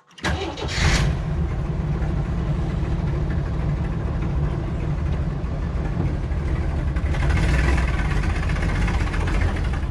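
Jeep CJ7's engine running steadily as it drives over rough ground, starting suddenly after a brief moment of near silence, with a short burst of noise about a second in and more hiss near the end.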